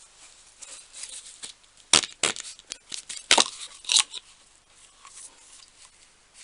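Small tools and packaging being handled: a run of sharp clicks and taps with short bits of rustling, the loudest clicks about two, three and four seconds in, growing quieter near the end.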